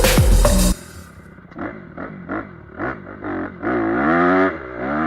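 Background music cuts off under a second in. Then a motocross bike's engine gives a series of short throttle blips, followed by longer revs that rise and fall in pitch.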